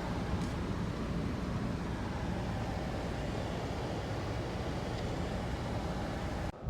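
Steady road and engine noise of a car being driven, cutting off abruptly near the end.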